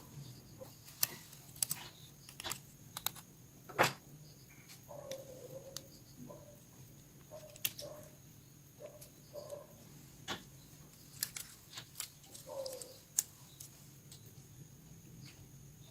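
Irregular sharp clicks and taps of small tools and plastic parts on a Nokia 105 phone as it is worked on, with a few short, faint chirps in between.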